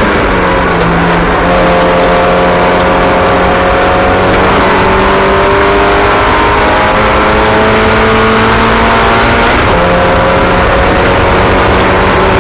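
Several racing car engines running together at steady high revs, their pitches climbing slowly and overlapping as the cars lap.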